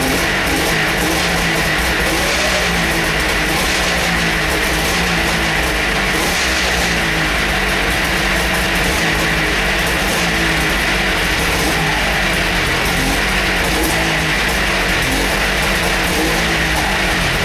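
1997 Polaris Indy XLT 600 snowmobile's three-cylinder two-stroke engine running steadily just after a cold start, its pitch wavering slightly.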